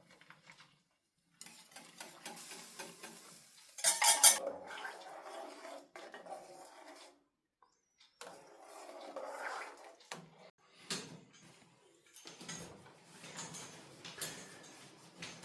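Pots, dishes and metal cutlery clinking and scraping in several short bouts. The loudest is a quick run of sharp knocks about four seconds in.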